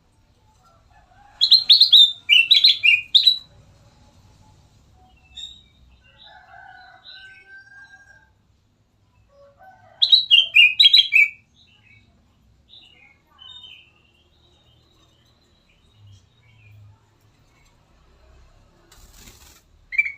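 Kutilang emas, a bulbul, singing: two loud bursts of quick, bubbling song phrases, each lasting about two seconds and about eight seconds apart, with softer scattered calls and a short drawn-out whistle in between.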